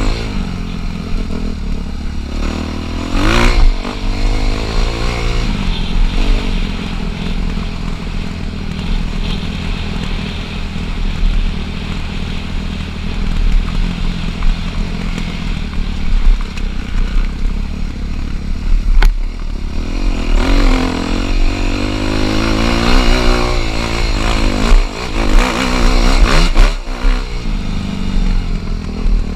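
Dirt bike engine being ridden, its revs rising and falling through the gears, with sharper rev sweeps about three seconds in and again through the last third.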